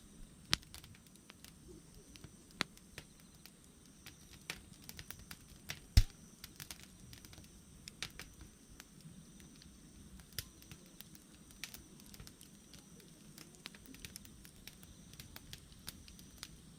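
Wood fire crackling, with irregular sharp snaps and pops, one much louder pop about six seconds in.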